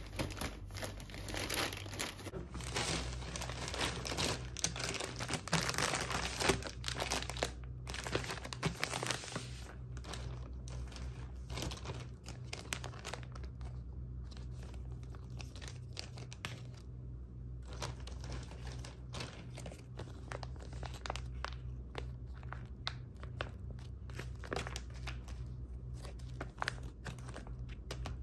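Packaging being handled: paper or plastic crinkling and rustling in irregular short bursts, with some tearing, over a steady low hum.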